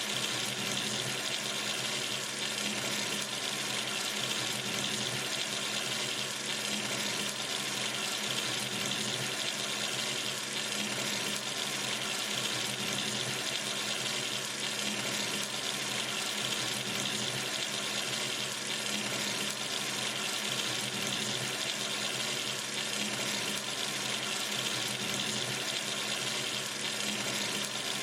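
Kitchen or bathroom sink tap running steadily, a stream of water splashing into the basin with an even hiss.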